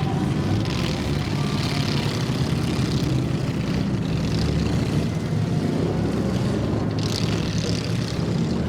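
Engine running with a steady low drone, with little change in pitch.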